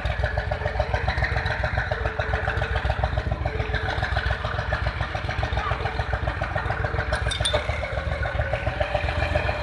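Diesel tractor engine running steadily with an even chugging beat.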